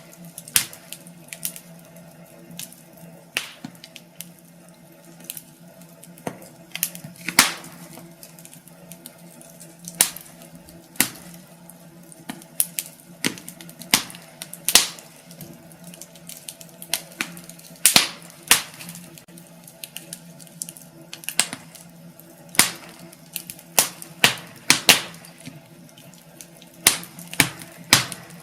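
Wood fire in a fireplace crackling, with irregular sharp pops and snaps over a steady low hum.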